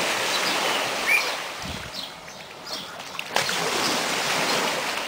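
Steady rush of splashing water, easing off in the middle and swelling again, with a few faint bird chirps.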